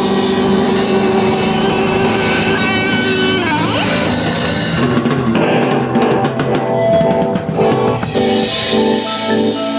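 Rock band playing live: held guitar chords ring out, then the drums come in with a run of hits about halfway through.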